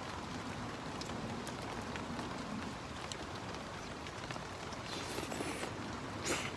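Steady rain falling, with scattered individual drops ticking. About five seconds in there is a brief burst of noise, and near the end a sharper, louder one.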